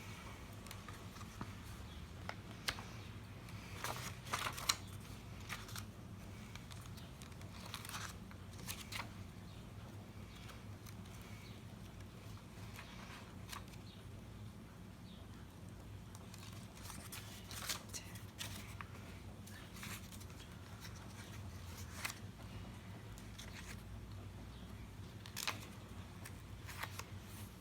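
Paper pages of a handmade journal being turned one after another while they are counted: short rustles and flicks at irregular intervals, a few of them louder about four seconds in and near the end, over a steady low hum.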